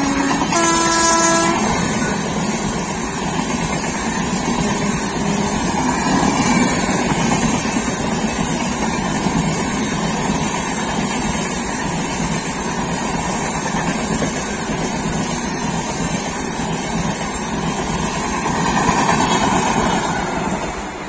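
Express passenger train's LHB coaches rushing past at speed, a steady roar of wheels on rail with clickety-clack over the joints. A train horn sounds briefly near the start.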